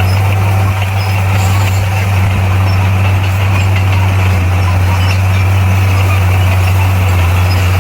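Bulldozer's diesel engine running steadily, a constant low hum that holds the same pitch and level throughout.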